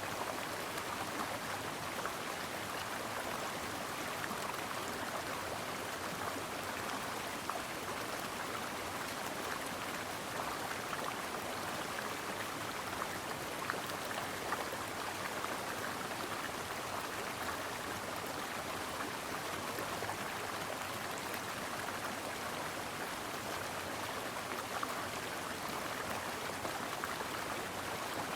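A stream flowing steadily: an even rush of water with scattered small ticks.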